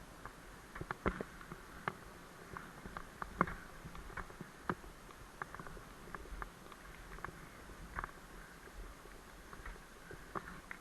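Bicycle rattling over rough ground: irregular light clicks and knocks over a faint steady rushing noise, the sharpest knocks about a second in and again about three and a half seconds in.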